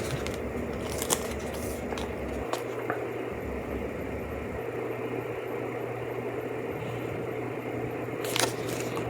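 Faint rustles and clicks of a paper activity book being handled, over a steady low room hum, with a few more rustles near the end.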